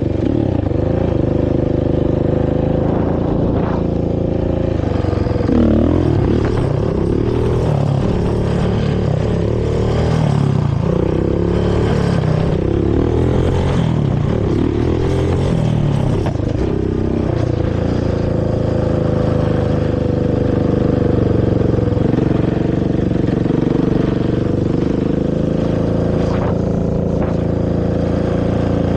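Honda TRX450R quad's single-cylinder four-stroke engine through its stock exhaust. It runs steadily, then from about five seconds in is revved up and down repeatedly for some ten seconds before settling back to steady running.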